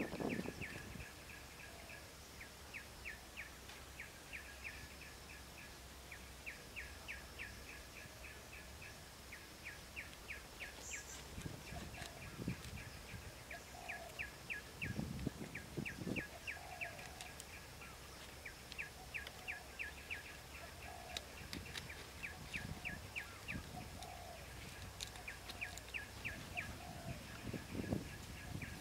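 A bird chirping in quick runs of short, high, evenly spaced notes, about four a second, again and again, with a few soft thuds from bamboo and leaves being handled.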